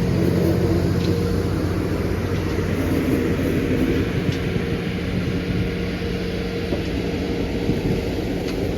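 Railroad locomotive running, a steady low engine drone with rumble.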